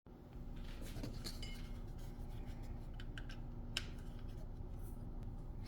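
A few sharp little clicks and clinks of small hard objects being handled, scattered over a steady faint hum.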